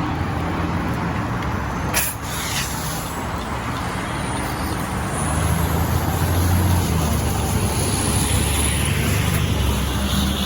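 A heavy diesel truck engine running steadily, most likely the fire engine on scene, with a short sharp hiss or crack about two seconds in.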